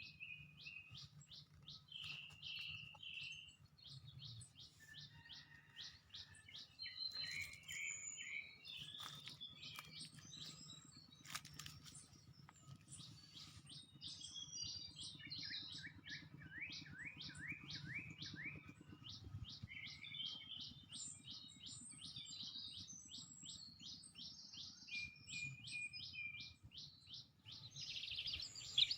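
Wild songbirds singing and chirping, with long runs of quick, repeated high notes and scattered chirps over a faint low hum.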